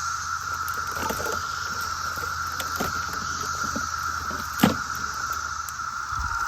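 Cicadas calling together in a steady, unbroken drone, with scattered small clicks and knocks of handling and one louder thump near the end.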